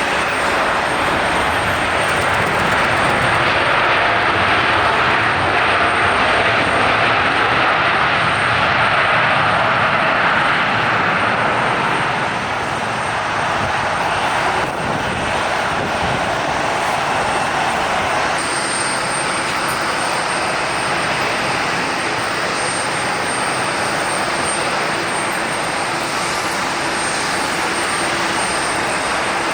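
Jet airliner engines running loud and steady, a continuous rushing noise that eases slightly about twelve seconds in.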